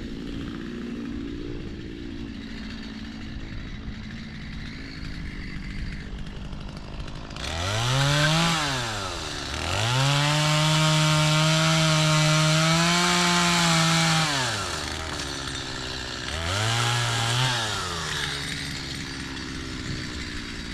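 Two-stroke chainsaw idling, then revved up and back down once, held at high revs for about five seconds, dropped, and given one more short rev before settling back to idle.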